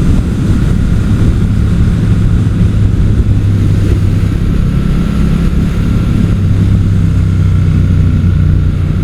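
Motorcycle engine running at a steady cruise, its note holding level throughout, under a haze of wind rush.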